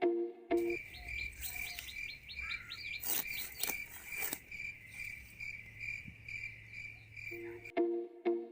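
Cricket-like insect chirping: a high trill pulsing about three times a second over a low hum. It starts and stops abruptly, with rhythmic background music just before and just after.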